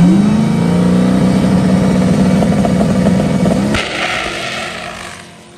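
Drag car engine revving up and holding steady at high revs for about three seconds. Then a short burst of hiss, and the engine sound falls away and fades.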